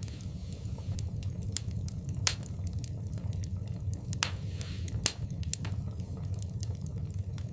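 Fireplace fire crackling: frequent sharp pops and snaps over a low, steady rumble of the flames, with two louder pops about two and five seconds in.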